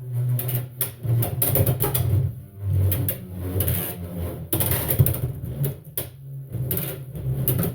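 Beyblade X top (Reaper Incendio T 4-70 Kick) spinning in a plastic stadium after launch. It makes a steady low hum with rapid, irregular clicking and clacking as it moves around and knocks against the stadium.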